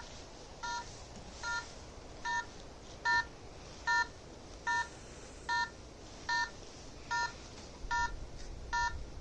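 Phone EMF meter app beeping steadily, a short multi-tone electronic beep repeating about every 0.8 seconds.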